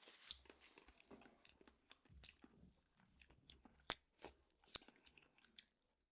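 Faint, close-up chewing and crunching of slightly crunchy cooked lupini beans, with a string of small sharp crunches, the loudest about four seconds in.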